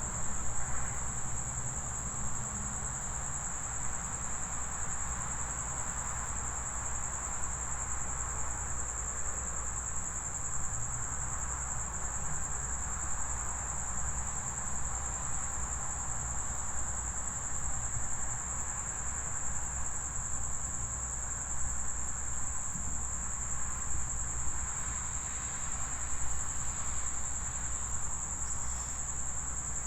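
Crickets trilling steadily in one continuous high-pitched chorus, over a low rumble.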